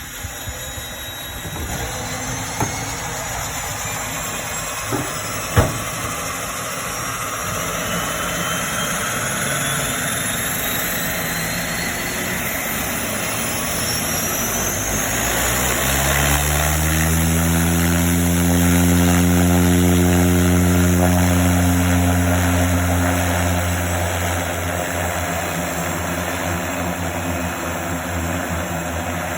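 De Havilland Otter aircraft engine starting. A whine climbs steadily in pitch over the first fifteen seconds, with a few sharp clicks early on. Then the engine and propeller catch, rise in pitch around sixteen seconds in, and settle into a loud, steady run.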